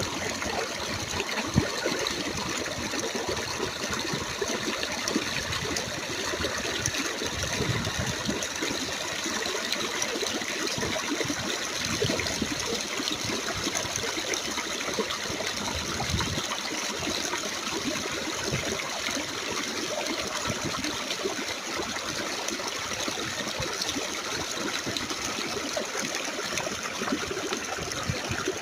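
Mountain stream running over rocks: a steady, even rush of flowing water with small splashes.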